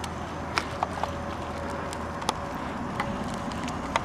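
Bicycle riding along: a steady rolling noise with about six sharp clicks and rattles scattered through it.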